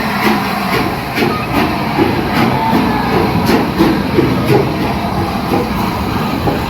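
A train moving through a station, with a run of uneven clicks and clanks from its wheels on the rails over a loud, steady running noise.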